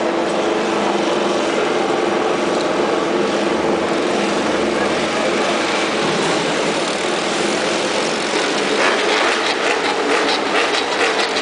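Racing motorcycle engines running steadily at an even pitch, with a few short sharp sounds near the end.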